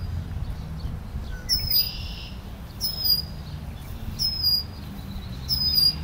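An agitated bird in the tree giving short, sharp, high calls that drop in pitch, repeated about every second and a half, over a low rumble.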